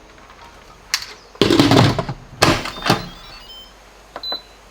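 Cookware being handled: several clunks and knocks, with a longer clattering scrape about a second and a half in. A short high beep sounds near the end.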